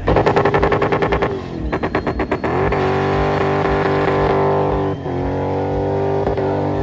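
A performance car engine: a rapid run of staccato pulses, then held at high revs and pulling hard, with a short drop in pitch about five seconds in like an upshift before it climbs again.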